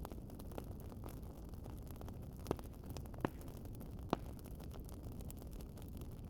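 Wood fire crackling: a steady low rumble of burning with scattered sharp pops, three louder ones in the middle.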